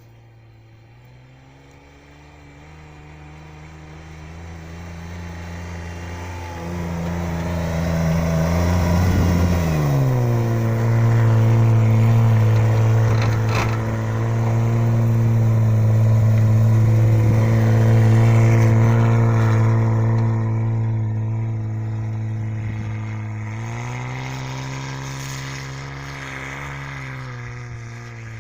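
Kia Retona's swapped-in Toyota 5VZ 3.4-litre V6 pulling under acceleration, its pitch climbing. About ten seconds in the pitch drops sharply at a gear change, and the engine then runs steady and loud at speed. Near the end the pitch steps up again and then eases off.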